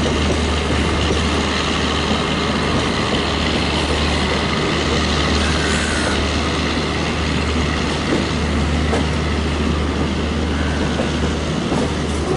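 Yesvantpur–Sarai Rohilla Duronto Express train running, a loud steady noise of the moving train with a few faint knocks.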